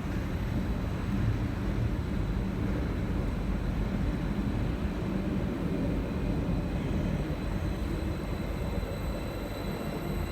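Steady low rumble of a train at a station platform, with a faint high whine held throughout.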